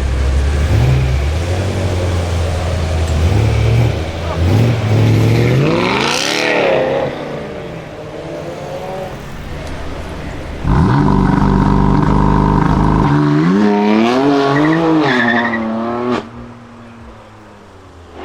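BMW performance car engine being revved: low running at first, then a few rising and falling revs. About two-thirds of the way through comes a loud rev held steady for a couple of seconds, then more revs that drop off sharply near the end.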